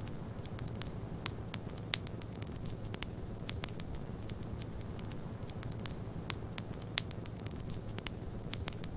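Fireplace fire crackling, with frequent irregular sharp snaps and two louder pops about two and seven seconds in, over a steady low rumble.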